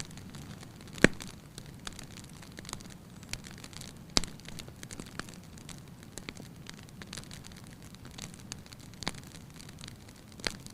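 Wood fire burning in a fireplace, crackling with scattered sharp pops over a steady low hiss. The loudest pops come about a second in and about four seconds in.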